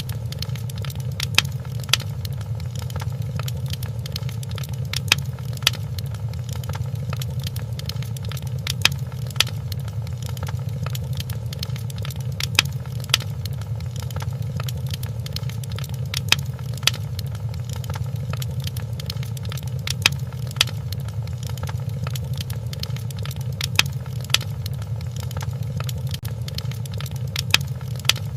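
Wood fire crackling in a fireplace: sharp pops and snaps, mostly in pairs about every four seconds in a regular repeating pattern, over a steady low rumble.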